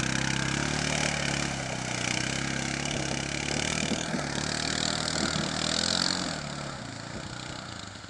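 ATV engine running under throttle as the four-wheeler is driven through mud, then fading down over the last second or two.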